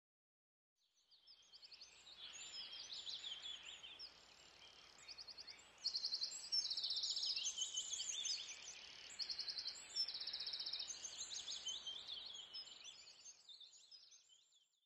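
Several birds singing, with many chirps and fast trills overlapping, fading in about a second in and fading out near the end.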